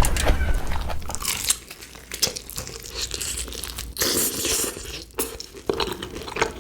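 Close-miked chewing of crunchy food: loud crackling crunches for the first second and a half, then quieter bites and chewing, with another burst of crunching about four seconds in.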